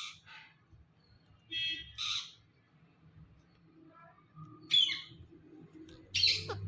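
Ringneck parrot giving a few short, harsh squawks and chirps in separate bursts, the loudest two coming about five and six seconds in.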